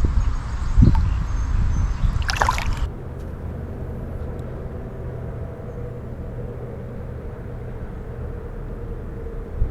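Water sloshing around a kayak, with a couple of knocks and a short splash in the first three seconds, then a steady low rumble of the drifting boat on the river.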